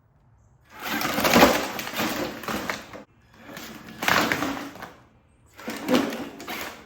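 Traxxas TRX4 RC crawler on box fan blade wheels driven at full reverse throttle under heavy load, in three bursts of one to two seconds with short pauses between. It is a noisy running sound from the motor, drivetrain and blades on the ground.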